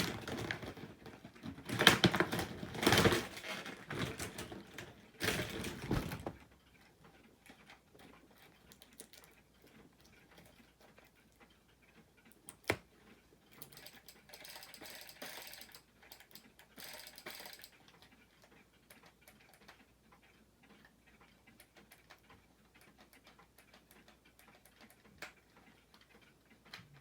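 Packaging being handled and pulled apart: loud rustling and crinkling bursts for about the first six seconds, then mostly quiet, with one sharp click about halfway through and fainter rustling soon after.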